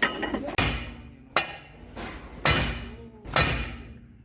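Hammer blows on steel, five ringing strikes about a second apart, driving a link pin out of a bulldozer track chain.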